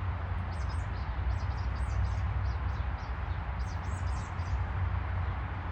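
Small birds chirping in short clusters of high notes, over a steady low rumble and hiss.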